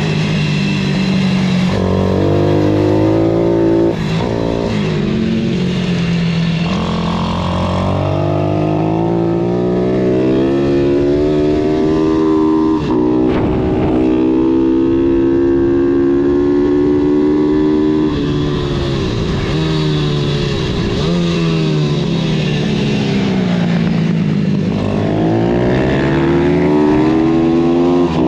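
Pitbike engine being ridden hard, its pitch climbing and falling several times as the bike accelerates and backs off.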